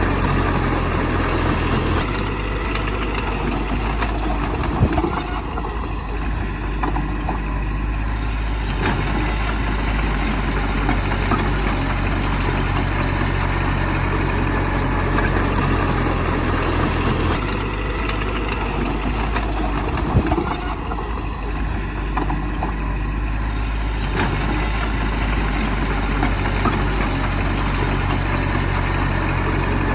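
Bulldozer's diesel engine running steadily, its note shifting about two seconds in and again near the middle as the machine works, with a couple of sharp knocks.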